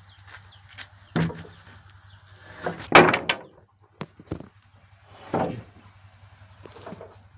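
A string of irregular heavy knocks and thuds of timber being handled, about six in all, the loudest about three seconds in.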